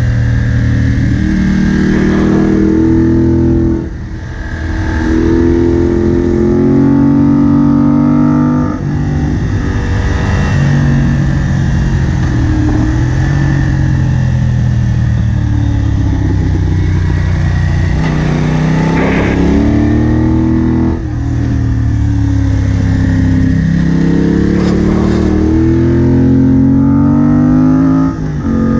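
Moto Guzzi Bellagio's transverse V-twin engine accelerating hard while riding, its pitch climbing again and again. Each climb is cut by a short drop at a gear change, four times. In the middle it runs steadier, easing off.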